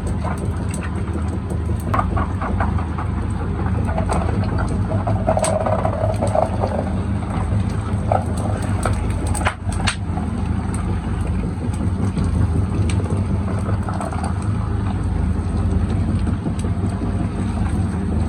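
Factory machinery in a hose-making workshop running with a steady low hum, with scattered clicks and clanks throughout.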